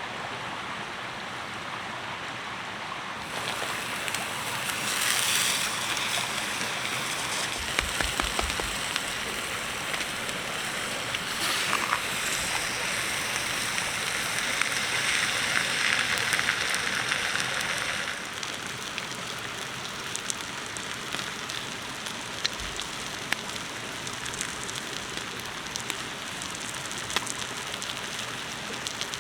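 Wood campfire crackling and hissing, with scattered sharp pops. The hiss grows louder briefly about five seconds in and again for several seconds around the middle.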